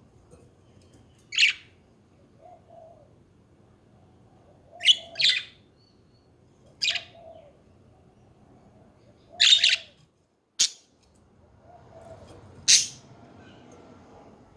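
Pet budgerigars chirping: short, sharp high calls every second or two, some in quick pairs, with softer low warbling chatter between them.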